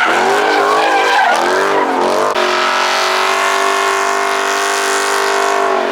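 Car engine revving hard, its pitch swinging up and down, then held steady at high revs from about two seconds in, with tyres screeching as the car spins them doing donuts.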